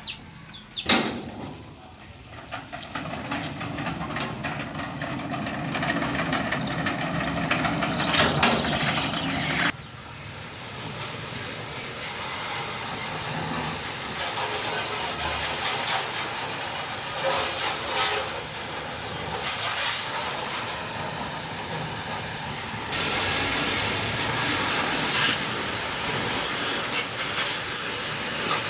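Steady loud hissing noise, with a sharp click about a second in; it drops away briefly about ten seconds in and steps up louder about 23 seconds in.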